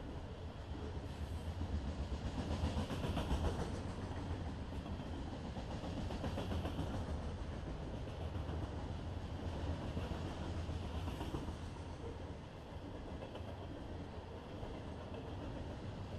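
Freight train of covered hopper cars rolling past close by: a steady rumble and rattle of steel wheels on the rails, swelling a little a few seconds in.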